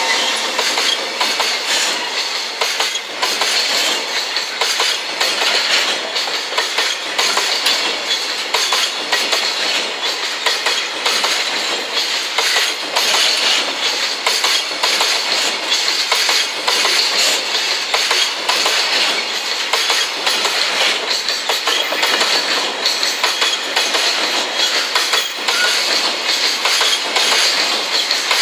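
Koki 104 container flatcars of a freight train rolling past close by: a steady rush of wheel and rail noise with wheels clicking and clattering over rail joints.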